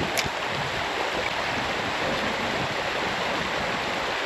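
Creek water running in a steady rush of flowing current, with a short click just after the start.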